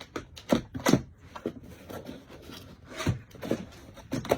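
Cardboard packaging being handled and opened: rubbing and scraping of cardboard, with several sharp knocks and scuffs.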